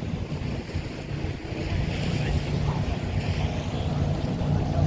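Strong wind buffeting the microphone, with surf washing on the beach underneath.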